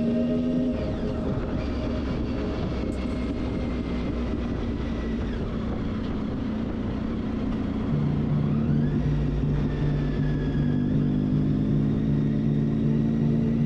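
Motorcycle riding on the road: steady engine and wind rumble, with a few faint shifts in pitch. About eight seconds in, a steady low drone from a music track comes in over it.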